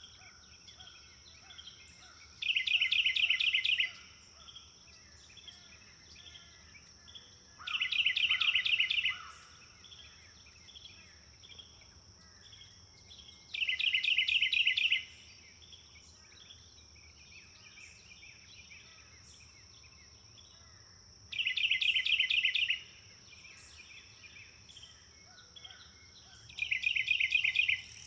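Forest birdsong: one bird repeats a loud, rapid trilled phrase about a second and a half long five times, several seconds apart, while other birds chirp softly in between. A steady high-pitched insect-like drone runs underneath.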